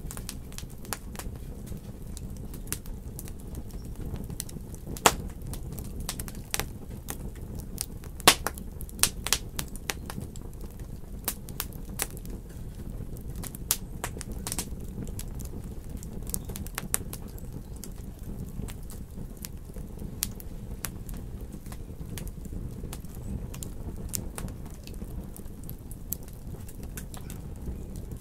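Wood fire crackling in a fireplace: a steady low rumble with irregular sharp pops and snaps, busiest in the first half.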